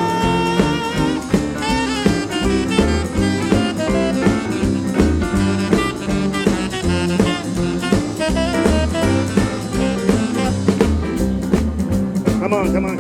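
Live band playing an instrumental break, a wavering lead line over a steady stepping bass line and drums, in a jazzy, swinging style.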